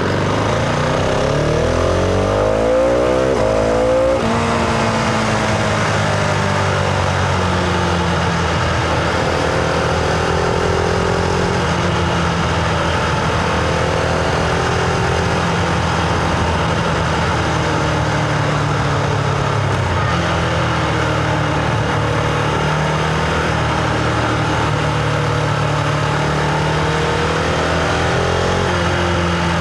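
Husqvarna Vitpilen 701's single-cylinder engine pulling under way. The revs climb for about four seconds, drop with an upshift, then hold at fairly steady cruising revs with small rises and falls.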